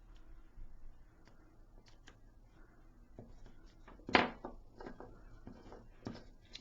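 Light taps and clicks of small die-cut paper pieces and foam adhesive pads being handled and pressed down on a craft table, with one sharper tap about four seconds in.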